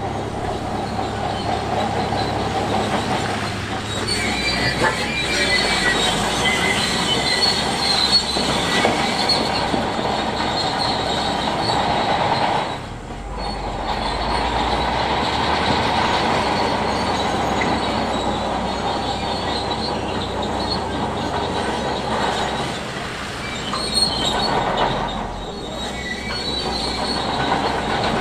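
Bulldozer pushing rock: a diesel engine running under a continuous squealing, grinding noise of steel tracks and scraping stone, dipping briefly twice.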